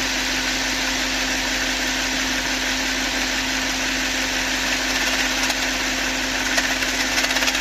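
Volkswagen Phaeton V8 engine idling with a steady hum over a hiss, and a scattering of ticks near the end. This is the strange noise that the owner suspects comes from a camshaft adjuster.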